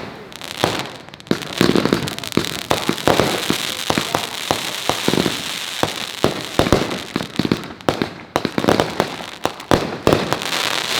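Consumer firework mortar shells bursting in quick, irregular succession: many sharp bangs over continuous crackling.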